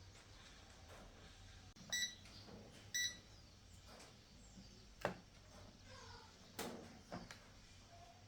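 Two short electronic beeps about a second apart, each a single high tone, then a few sharp clicks and knocks over a low steady hum.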